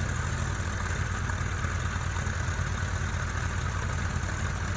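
Tractor's diesel engine running steadily at a low, even speed, a fast continuous low rumble that does not rise or fall.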